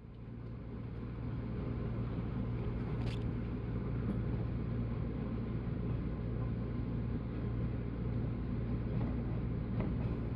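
Running noise of a 185 series electric train: a steady low rumble of wheels and motors that builds over the first couple of seconds and then holds, with one brief click about three seconds in.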